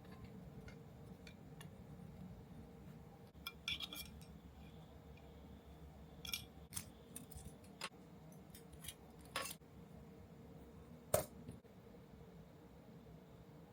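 Scattered clicks and light clinks of small hard parts and tools being handled during model-kit assembly, a few at a time, the loudest about eleven seconds in, over a faint steady hum.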